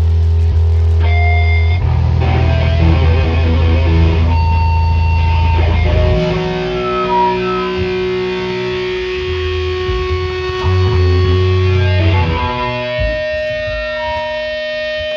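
Rock music with a distorted electric guitar, with heavy low bass notes up to about halfway through, then held guitar notes.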